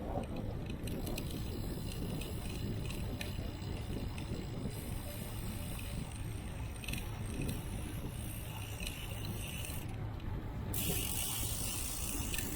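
Bicycle freewheel ticking as the rider coasts, over a steady low rumble of wind and road noise.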